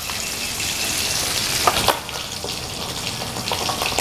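Fish frying in hot oil in a wok: a steady sizzle, with a couple of sharp clicks about halfway through. Near the end, cooking oil is poured from a glass jug into a second wok.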